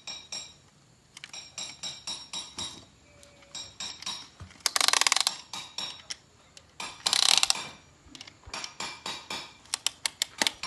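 Metal hand tools clinking and knocking on engine parts. About five and seven seconds in come two half-second runs of rapid ratchet-wrench clicking.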